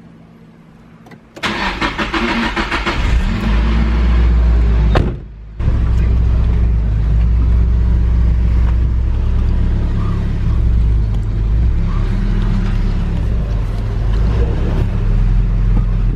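Car engine cranking and catching about a second and a half in, then running steadily with a deep, low exhaust note. The sound drops out briefly about five seconds in.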